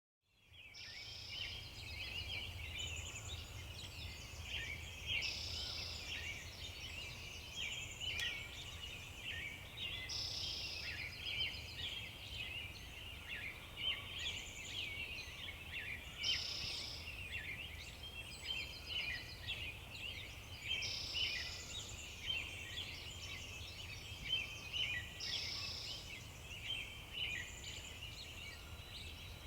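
Many birds chirping at once, with one bird repeating the same short song about every five seconds, over a low steady hum.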